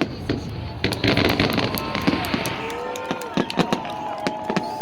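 Festive fireworks salute: a quick series of bangs and crackles, with a spell of fizzing hiss about a second in.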